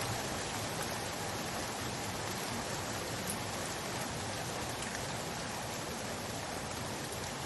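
Steady rain falling and pattering on a surface, with a few faint separate drop ticks.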